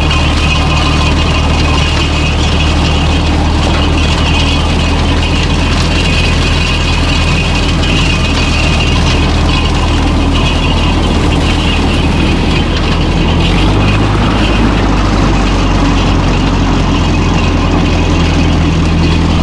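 Old Ferguson tractor engine running steadily, its note shifting slightly about thirteen seconds in.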